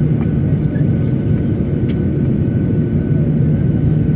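Steady cabin noise inside a Boeing 737-900 after landing: a low, even hum of the engines and air conditioning, with a single sharp click about two seconds in.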